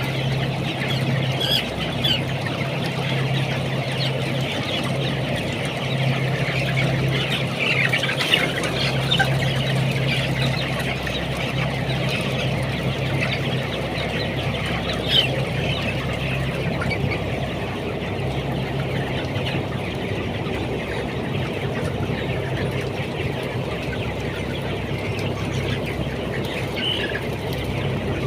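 A flock of 20-day-old broiler chickens clucking and chirping all together, over a steady low hum that drops out now and then.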